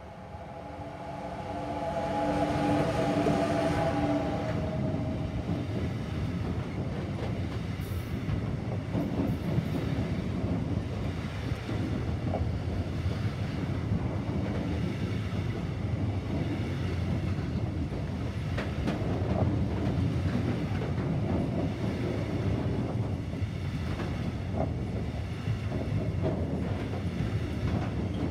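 Electric freight train passing close by: a BLS Cargo Traxx locomotive goes past with a pitched hum in the first few seconds, then the CargoBeamer intermodal wagons roll by with a steady rumble of wheels on rail and occasional clicks.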